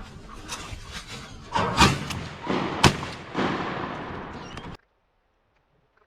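Several shotgun blasts over a steady rushing noise, the two sharpest about a second apart. The sound cuts off suddenly about three-quarters of the way through.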